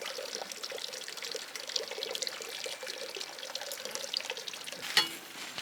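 Water running and trickling, with a sharp knock about five seconds in.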